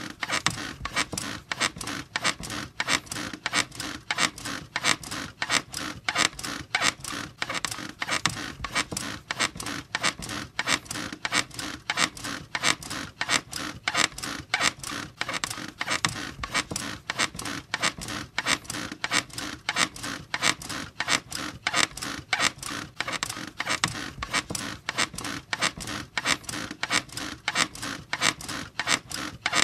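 Bed springs and frame squeaking in a fast, even rhythm, about two to three squeaks a second, without a break.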